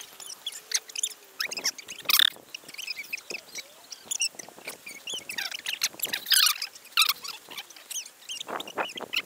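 Songbirds singing: a busy run of short chirps, whistles and quick trills.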